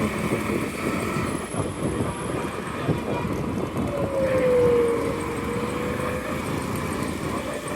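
Road and traffic noise from riding an electric scooter through city traffic. Around the middle, a single tone slides slightly downward over about two seconds.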